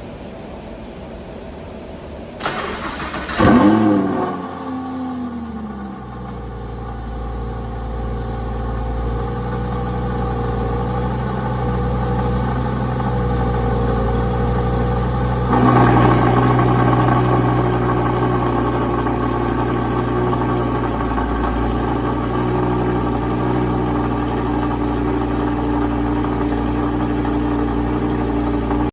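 Audi R8 V10 Plus's 5.2-litre V10 with a Capristo aftermarket exhaust being cold-started: a brief crank, then it fires about three and a half seconds in with a loud flare that drops away over a couple of seconds into a steady high cold idle. About fifteen seconds in the idle grows suddenly louder and fuller, then eases a little and stays steady.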